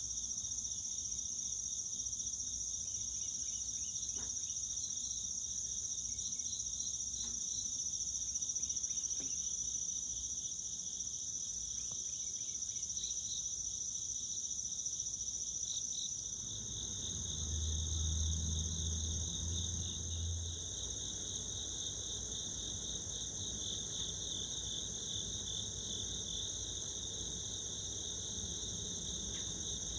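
Steady insect chorus of crickets, a continuous high trill with a second, pulsing band below it. A low hum comes in for a few seconds past the middle.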